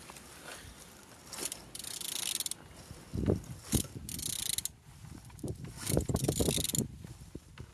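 Used Opel Z16XE 1.6 four-cylinder engine being turned over by hand with a ratchet wrench: three spells of fast ratchet clicking, with heavier knocks between them. The engine turns good.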